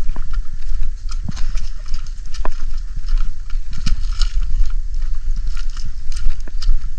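Footsteps on a road, irregular clicks and scuffs, over a loud low rumble of wind and handling on the microphone.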